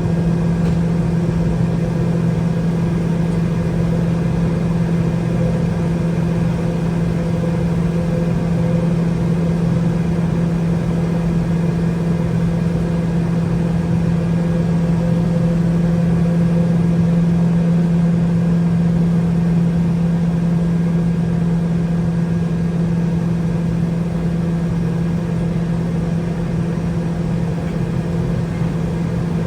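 Boeing 717-200's rear-mounted Rolls-Royce BR715 turbofan running steadily at idle, heard from inside the cabin: an even drone with a strong low hum and fainter steady tones above it.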